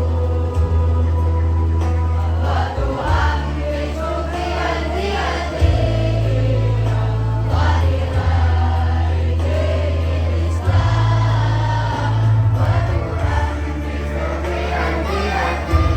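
Choir singing shalawat, an Islamic devotional song, over musical accompaniment, with held bass notes that change every two to three seconds.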